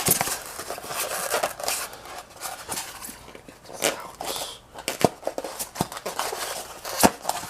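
Packaging and ceiling-fan parts being handled: rustling with scattered sharp clicks and knocks, the loudest about four, five and seven seconds in.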